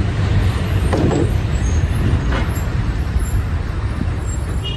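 Road traffic with buses: a steady low engine rumble, with a brief sharper sound about a second in.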